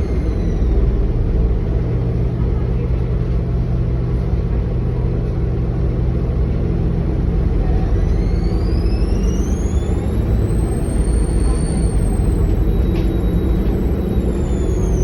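Bus diesel engine running with a high-pitched turbo whine over a steady low rumble. The whine falls away in the first second, then rises from about halfway through, peaks and falls again near the end, as the engine comes on and off load.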